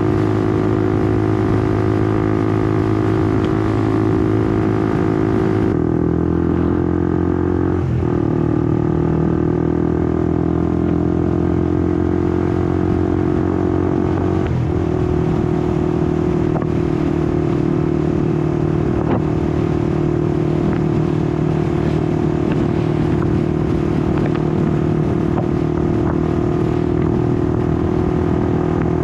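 Honda CBR150R's single-cylinder engine running under way, with wind noise on the rider's camera. About six seconds in the engine note drops and the wind hiss falls away, the pitch shifts again briefly near eight and fifteen seconds, and the engine then holds a steady cruise.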